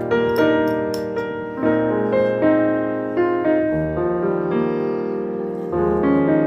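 Background piano music: a melody of single notes over chords.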